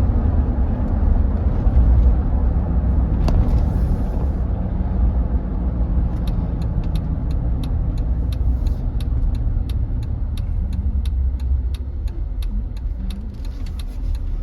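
Vehicle driving, heard from inside the cab as a steady low engine and road rumble. About six seconds in, a turn signal starts ticking steadily, a little over two ticks a second.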